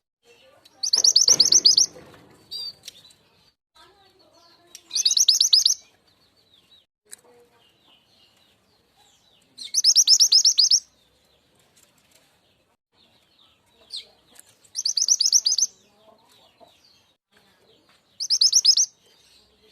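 Lure-call song of the mountain mantenan bird (truntung weru): five loud bursts of rapid, high, chattering notes, each about a second long, repeated every three to five seconds, with faint chirps in between.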